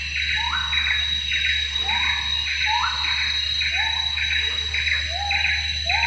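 A bird calling the same short, rasping phrase over and over in a steady rhythm, about one and a half calls a second, over a steady high whine.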